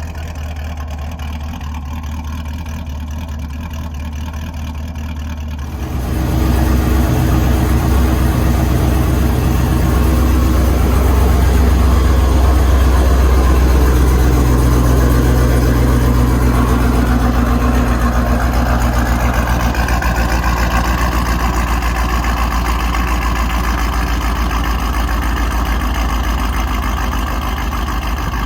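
Car engine running steadily. About six seconds in, the sound jumps louder and fuller with more hiss, then holds and eases off slightly in the later part.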